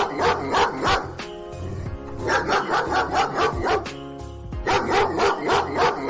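A dog barking in quick runs of short barks, about three a second, three runs with brief pauses between them, over background music.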